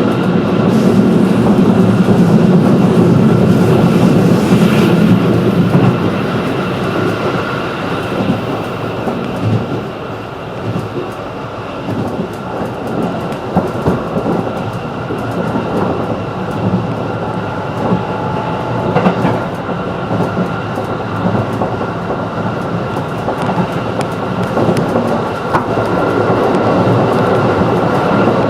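Running noise of a 211 series electric train heard from inside the car: wheels on rail with scattered clicks of rail joints and a faint steady high tone. It is loudest in the first few seconds, eases off in the middle and builds again near the end.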